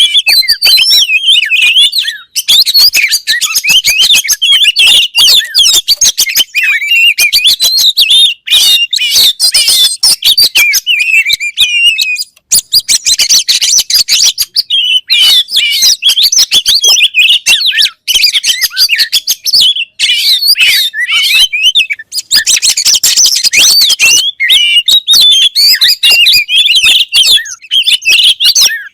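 Oriental magpie-robin (kacer) singing loudly: a fast, near-continuous run of varied whistled notes that slide up and down, broken only by a few short pauses.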